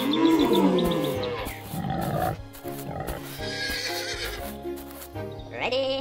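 Cartoon farm-animal calls over background music. A long call bends up and down in pitch in the first second and a half and is the loudest sound. A shorter call comes about two seconds in, and another call rises sharply near the end.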